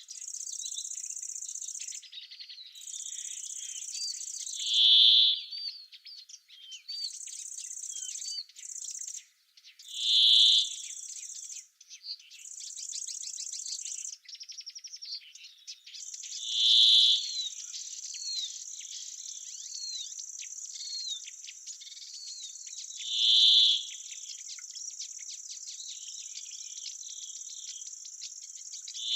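Summer oak-wood ambience: an insect's steady high buzz that breaks off and starts again several times, then runs on unbroken. Under it come small bird chirps, and one loud short call that comes back about every six seconds.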